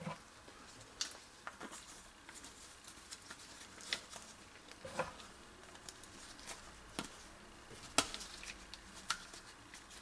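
Scattered light clicks and taps, about a second or two apart, of sink drain parts being handled and fitted into place.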